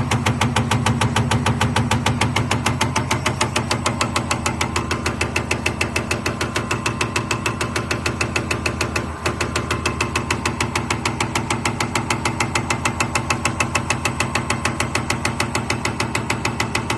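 Common rail injector test bench running: the motor-driven high-pressure pump hums steadily while the injector fires in a fast, even pulsing of several clicks a second.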